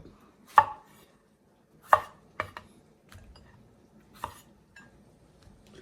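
Kitchen knife cutting up fresh tomatoes on a cutting board: a handful of separate, irregularly spaced sharp knocks as the blade strikes the board.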